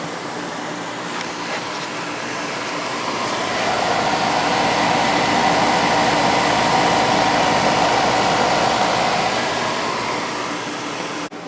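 Idylis 12,000 BTU portable air conditioner running in cool mode: a steady rush of fan air over the compressor's hum. It grows louder from about a third of the way in, then eases off again near the end, with a brief dropout just before the end.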